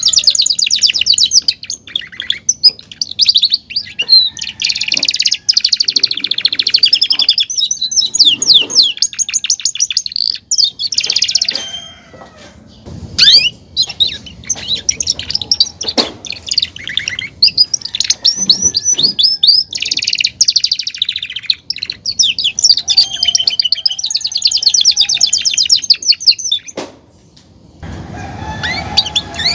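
A Belgian canary singing a long, loud song of rapid trills and chirped phrases, breaking off briefly twice.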